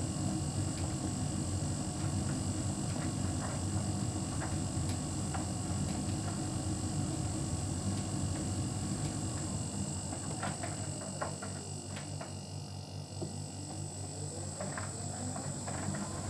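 Hotpoint heat pump tumble dryer running, a steady hum from its compressor and drum motor with light clicks of the load tumbling. About ten seconds in, the motor tone glides down and then back up as the drum slows and starts turning again.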